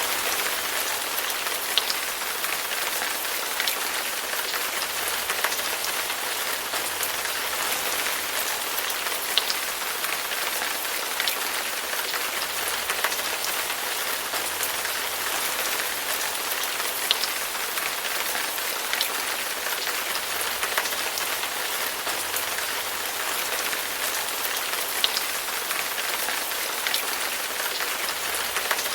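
Steady rain falling on a hard surface: an even hiss with the ticks of single heavier drops scattered through it.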